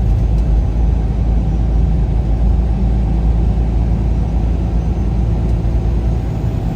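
Vehicle driving along the road: a steady low engine and road rumble.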